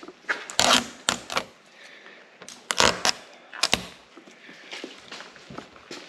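Sharp plastic clicks and crackles from the hood protector being handled, with a faint rustle between them. The loudest come in the first four seconds.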